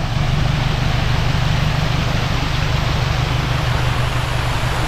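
Small forest waterfall: water falling and splashing in a steady rush.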